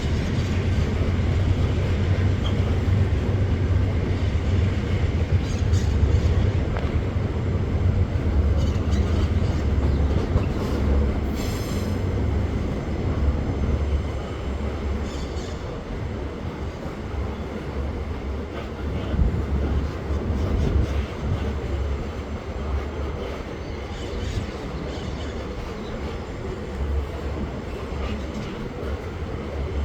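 Loaded freight train of bauxite ore wagons rolling past with a steady, deep rumble. A brief high wheel squeal comes about eleven seconds in. The sound eases slightly after about fourteen seconds.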